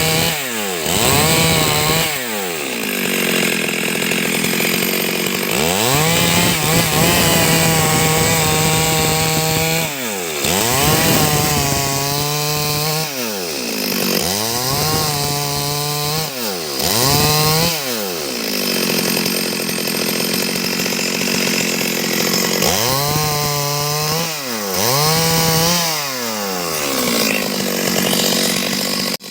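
Stihl MS 382 two-stroke chainsaw cutting wood at full throttle, the engine pitch dropping sharply and revving straight back up again about eight times.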